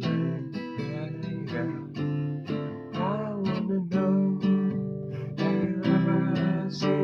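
Acoustic guitar strummed in a steady rhythm, with a singing voice holding a wavering note about three seconds in.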